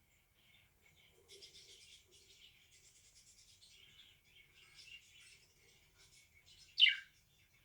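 Pet budgerigar chattering softly in short twittering bits, with one loud short chirp that falls in pitch near the end.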